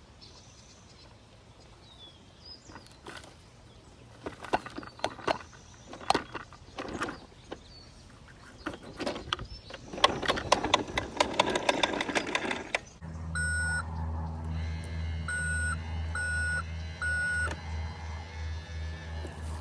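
Toy garbage truck: plastic clicking and rattling, then about two-thirds in its small electric motor starts and runs steadily with a few short electronic beeps.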